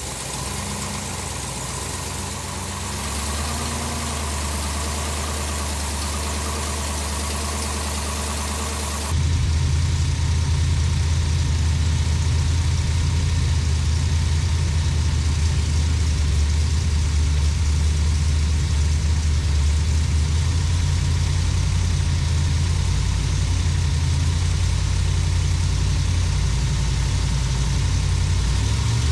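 Supercharged big-block V8 running steadily on an engine dyno, still on running-in oil during its run-in. About nine seconds in the sound turns suddenly louder and deeper.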